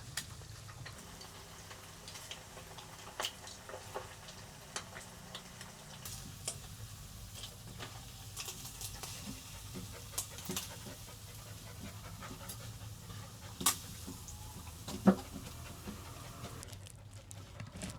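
A Dalmatian panting, with scattered sharp clicks and taps over it; the loudest is a single knock about fifteen seconds in.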